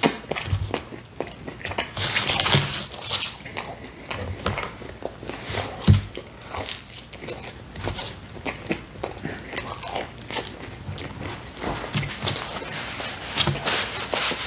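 Close-miked chewing of pizza: irregular wet mouth clicks, smacks and crunches. A louder single knock comes about six seconds in.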